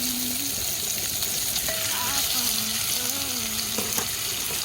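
Pork belly sizzling steadily on the grill, with faint voices in the middle.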